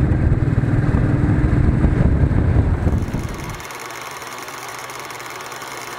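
Motorcycle riding on the road with wind buffeting the microphone over the engine. About three and a half seconds in the rumble drops away to a quieter, steady engine hum.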